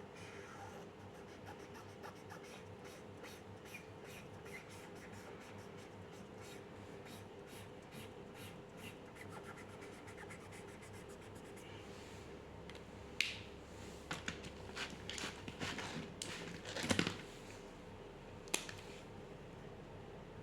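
Drawing tool scratching over paper in a quick run of light, repeated strokes. In the second half come several louder clicks and knocks, with a faint steady hum throughout.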